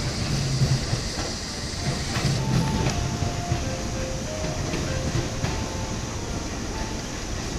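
Electric commuter train running over the rails and pointwork: a steady low rumble with scattered wheel clacks and brief faint whines.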